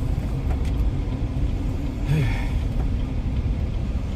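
Steady low rumble of a truck's engine and road noise, heard from inside the cab.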